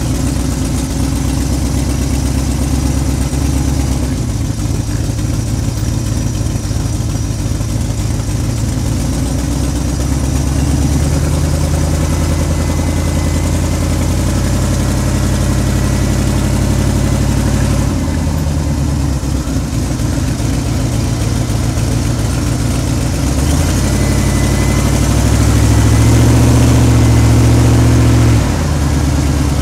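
1972 Dodge Challenger's engine running while driving slowly, heard from its front grille. The engine note steps up and down several times with the throttle, is loudest a few seconds before the end, then drops suddenly as the throttle is let off.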